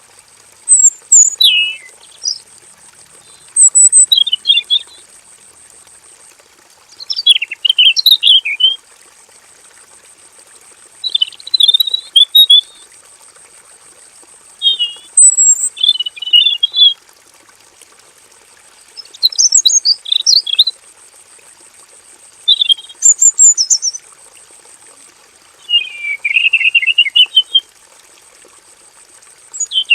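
Male red-billed leiothrix (Pekin robin) singing: about nine short, rich warbled phrases, each a second or two long, separated by pauses of a few seconds.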